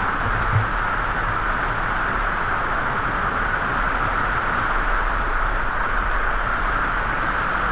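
Steady rushing of a waterfall and its stream, an even, unbroken noise, with a brief low thump about half a second in.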